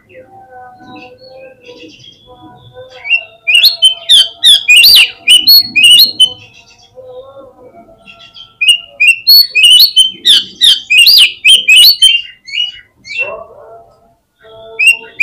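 Oriental magpie-robin (kacer) song played as a lure call: two loud runs of rapid, varied whistles and chirps with quick sweeping notes, starting about three seconds in and again about nine seconds in, with softer scattered notes between them.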